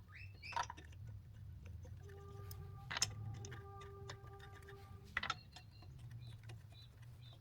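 Wheel nuts being started by hand on a caravan wheel's studs: a few sharp metal clicks spread over several seconds, with a faint steady tone in the middle.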